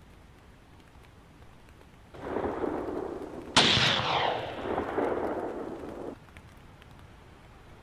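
A rumbling noise swells about two seconds in, then a sharp, loud blast hits and dies away over about two seconds before the sound cuts off suddenly, typical of gunfire or an explosion in a firefight.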